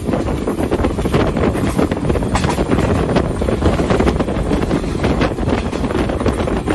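Passenger train running along the track, heard from its open doorway: steady wheel and rail noise under heavy wind buffeting the microphone.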